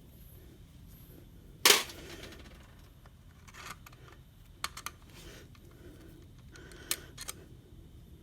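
A few scattered sharp clicks and knocks, with the loudest, a single hard knock, about a second and a half in, and smaller clicks later.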